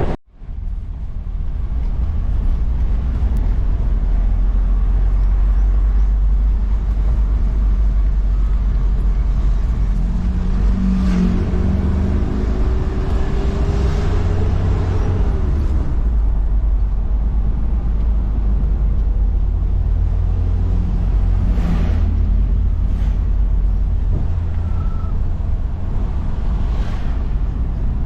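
Motor vehicle driving: a steady low rumble of engine and road noise, with a faint rising whine around the middle and a few light clicks near the end.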